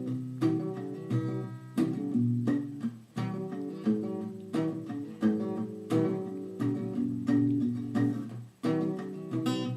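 Acoustic guitar strumming chords in a steady rhythm, a stroke about every 0.7 s, as the instrumental introduction to a song before the singing begins.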